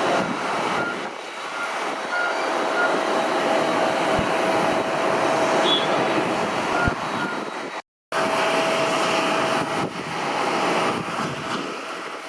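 Rolls-Royce Trent 1000 turbofans of a Boeing 787-8 taxiing at low power: a steady rush with a faint held whine. The sound cuts out for a moment about eight seconds in.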